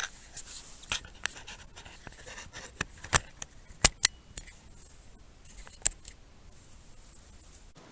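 Handling noise as a camera is set on a stand close to the microphone: irregular sharp clicks, knocks and light scrapes. The loudest knocks come about three to four seconds in, with another about six seconds in.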